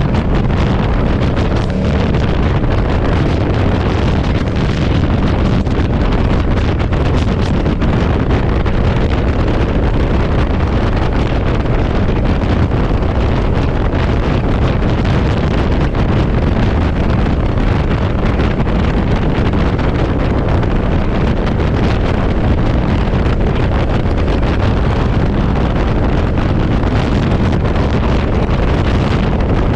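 Heavy wind noise buffeting the microphone of a moving motorcycle in strong gusts, a steady loud rush over the motorcycle's running engine.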